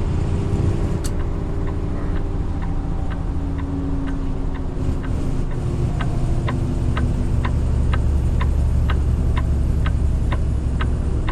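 Inside a semi truck's cab: the indicator flasher clicking steadily about twice a second over the low, steady drone of the diesel engine and road noise as the heavy rig slows for an exit.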